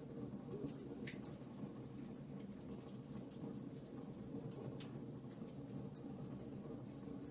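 Wood fire burning in a fireplace, crackling with irregular sharp snaps and pops over a steady low hum of the flames.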